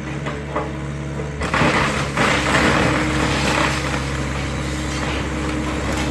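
Excavator engine running steadily while the garage is torn down. About a second and a half in, a loud crunching and breaking of demolition debris starts and lasts about two seconds.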